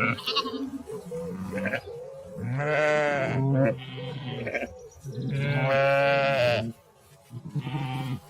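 Sheep bleating: a run of wavering baa calls, the two longest and loudest about three seconds in and around six seconds, with shorter bleats between them.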